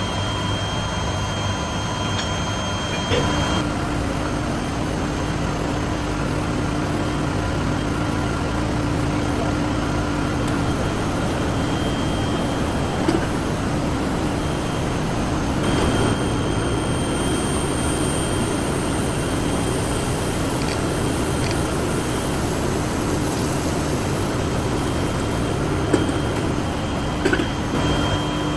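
Steady industrial machinery noise with a few faint steady tones that come and go, and a few sharp clicks.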